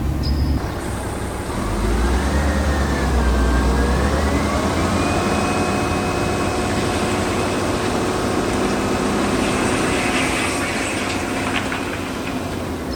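Small motor running, its whine rising in pitch over the first few seconds and then holding steady.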